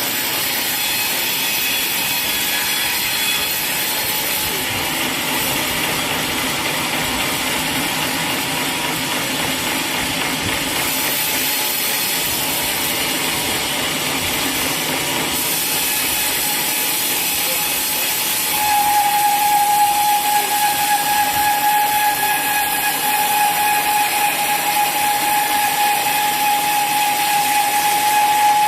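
Sawmill saw and machinery running with a steady hiss; about two-thirds of the way in a steady high whine sets in and the sound grows louder and rougher as the saw cuts through the teak log.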